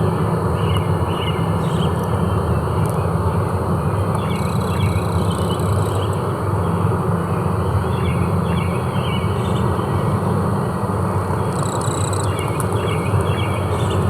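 Forest ambience: a steady low drone with insects buzzing, short repeated chirps, and a high insect trill that comes and goes.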